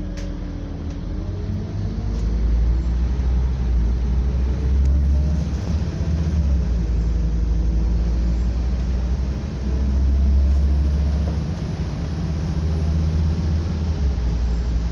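Scania double-decker bus engine running on the move, heard from on board: a low, steady drone that gets louder about two seconds in and then swells and eases as the bus drives.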